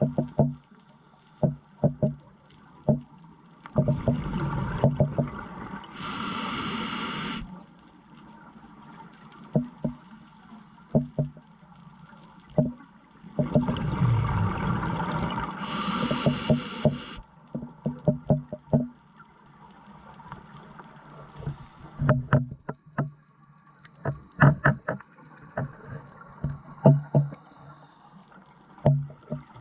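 Scuba diver breathing underwater through a regulator: two long breaths about ten seconds apart, each a rush of bubbles ending in a sharp hiss. Short clicks and pops come throughout between the breaths.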